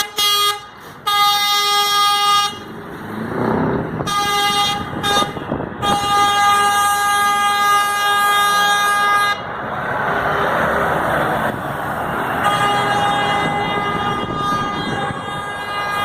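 Truck air horns blowing in a series of steady blasts: a short toot, then blasts of one to two seconds, a long one of about three and a half seconds, and after a brief gap another long, fainter blast near the end.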